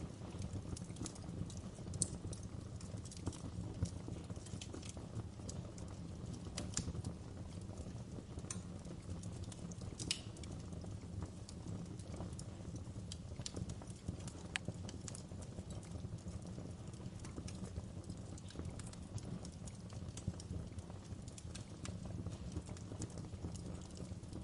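Wood fire in a fireplace burning, with irregular sharp crackles and pops from the burning logs over a steady low rumble of the flames.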